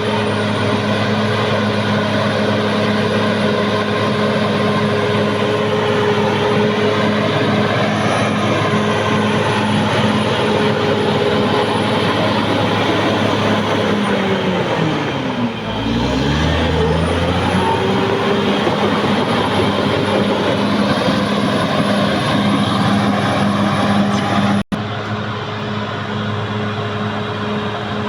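Caterpillar D6R XL bulldozer's diesel engine running steadily at working revs. About halfway through, the engine note dips sharply and climbs back up. Near the end there is a split-second break in the sound.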